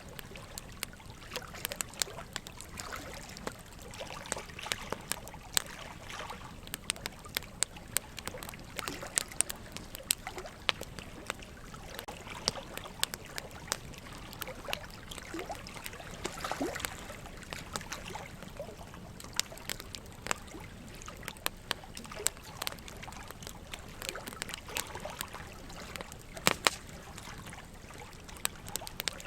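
Wood fire burning in a fireplace, crackling with frequent irregular sharp pops, over a steady trickle of running water. A pair of louder pops comes near the end.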